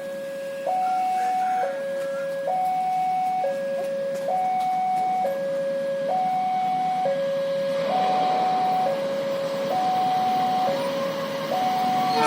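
Railway level-crossing warning signal sounding an electronic two-tone alarm that alternates steadily between a higher and a lower note, each held just under a second. From about two-thirds of the way in, a rising rush of noise from an approaching train builds beneath it.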